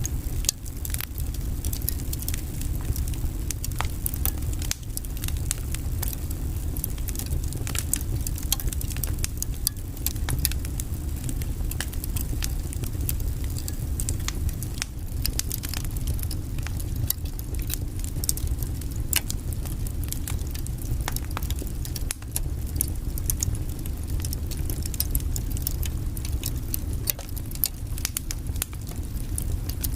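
Wood fire burning in a fireplace: logs crackling with frequent irregular sharp pops over a steady low rumble.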